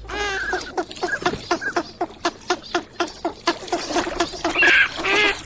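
Wild ducks calling: a rapid run of short calls, about four a second, with a louder, longer call near the end.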